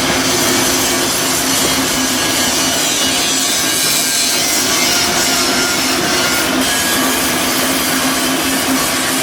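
Loud, steady shipyard metalworking noise from a power tool running continuously, with a steady low hum underneath.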